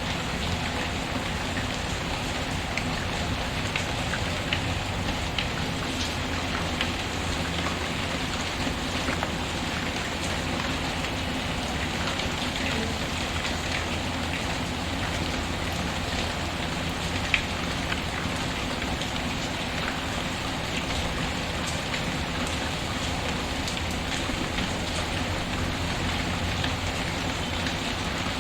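Steady rain patter mixed with a crackling wood fire: an even hiss with scattered sharp pops, one louder pop about 17 seconds in.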